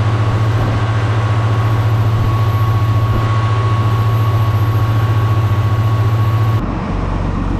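Boat engine running steadily with a fast, even pulsing drone and a faint steady whine above it. About six and a half seconds in it changes abruptly to a quieter, lower drone.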